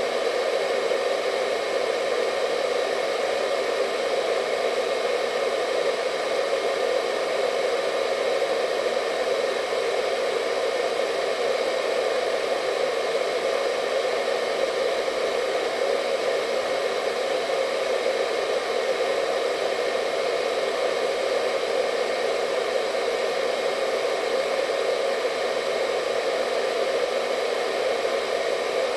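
Hair dryer running steadily at constant speed: an even airflow rush with a faint motor whine, unchanging throughout.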